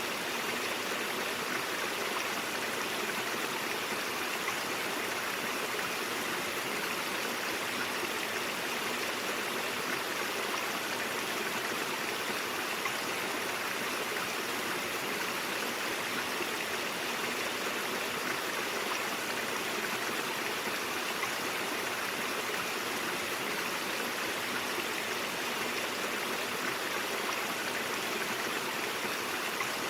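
Brook water flowing: a steady, unbroken rush of running water.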